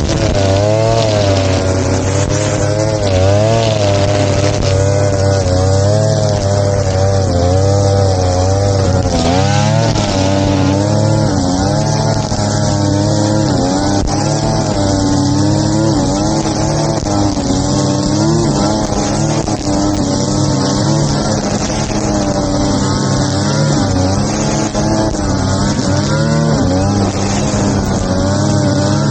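Small petrol engine of a grass-cutting machine running steadily while cutting, its pitch wavering up and down a little under changing load.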